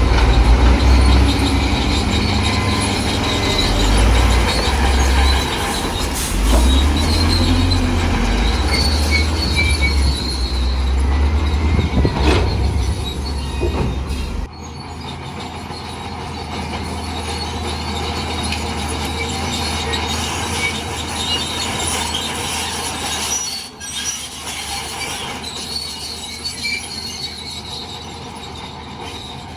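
Heavy diesel earthmoving machinery working, with high-pitched metallic squealing like the tracks of a crawler bulldozer. The deep engine rumble drops away abruptly about halfway through, leaving lighter machinery noise and squeals.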